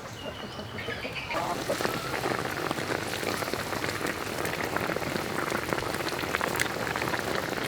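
Food cooking in a pan or pot: a dense, steady crackling sizzle that swells up about a second in.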